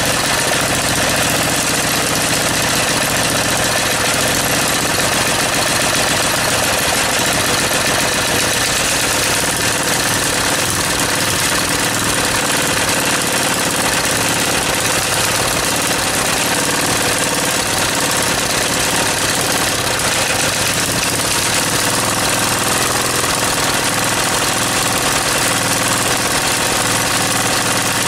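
Small four-stroke engine with spacers fitted at its cylinder head, running steadily.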